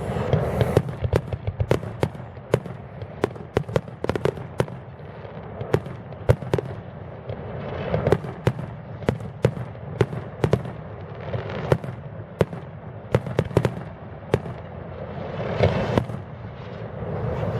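Aerial fireworks exploding: many sharp bangs and cracks in quick, irregular succession over a continuous rumble. The rumble swells three times, at the start, about halfway through and near the end.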